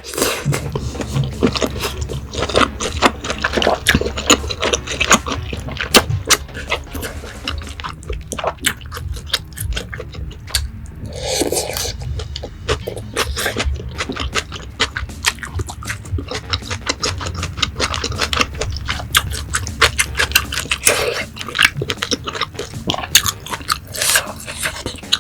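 Hanwoo beef sizzling and crackling on a hot grill, with dense popping and spitting over a steady low hum that stops near the end. There is a brief louder scraping noise about halfway through.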